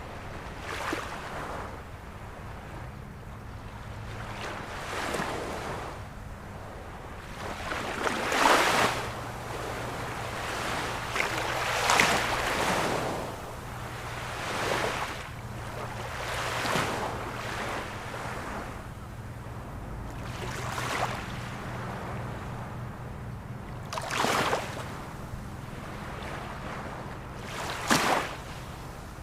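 Ocean waves breaking on a shore, a steady wash with a surge every few seconds. The loudest breaks come about a third of the way in and again near the end.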